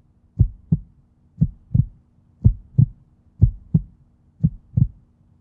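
Heartbeat sound: pairs of short, deep thumps in a lub-dub rhythm, about one pair a second, five pairs in all.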